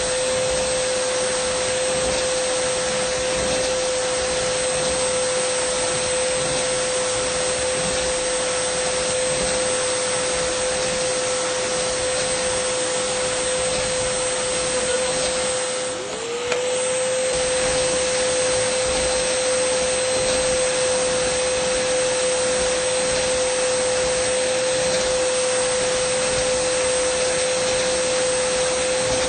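Dyson vacuum cleaner motor running steadily: a constant high whine over a rushing hiss of air. About halfway through, the sound dips for a moment with a click, and the whine slides back up to its pitch.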